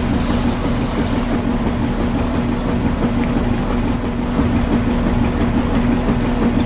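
Small electric motor running steadily: a loud, even buzzing hum with a rough rattle under it.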